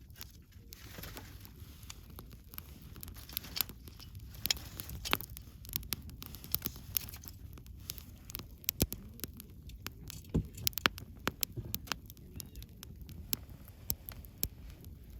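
Wood fire crackling: irregular sharp pops and snaps, several a second at times, over a low steady rumble of the flames.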